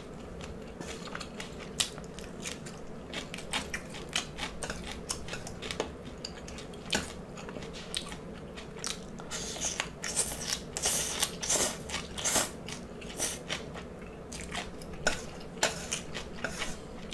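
Close-miked chewing and crunching of fried salt and pepper shrimp and sautéed ong choy, with many short crisp clicks that come thicker in the second half.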